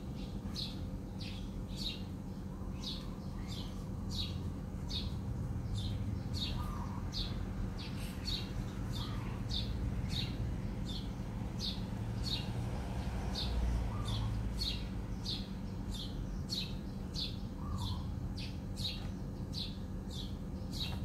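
A small bird chirping over and over, short high chirps at about two a second, over a steady low hum.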